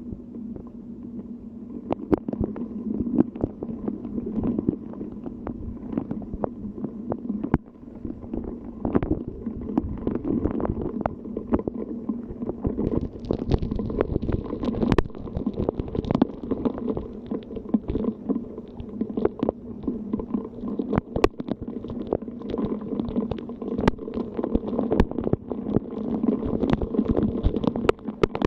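Rain and wind in a storm: a dense, rough wash of noise full of irregular sharp taps, picking up about two seconds in.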